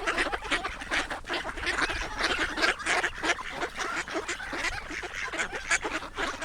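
A crowd of ducks calling all at once, with short, harsh quacks overlapping in a continuous clamour.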